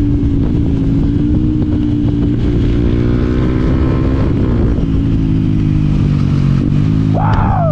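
Yamaha WR125X's single-cylinder four-stroke engine running steadily under way, its pitch drifting gently with small changes in throttle. A short sliding high tone comes over it near the end.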